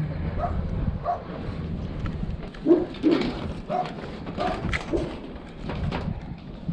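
A dog barking, a string of short barks at irregular intervals.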